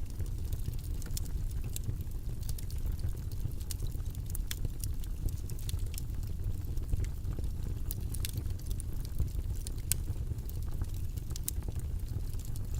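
Irregular light clicks of computer keyboard typing over a steady low rumbling background noise.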